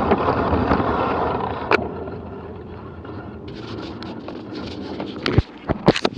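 Rushing wind and rolling trail noise on the microphone, dying away as the descent slows to a stop, followed near the end by several sharp clicks and knocks.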